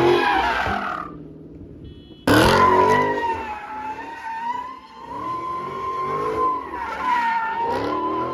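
Car tyres squealing in a sustained drift, a steady high squeal, with the engine revving up and down underneath. The sound falls away about a second in and comes back abruptly about two seconds in.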